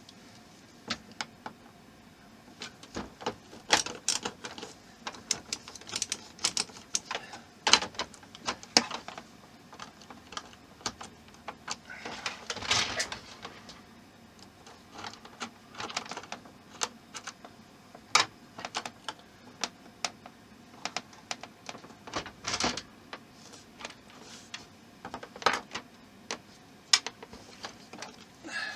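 Irregular clicks, taps and knocks of small plastic and metal model parts and a screwdriver being handled and pushed together, with a short scraping stretch about halfway through, as a part that won't go in is worked into place.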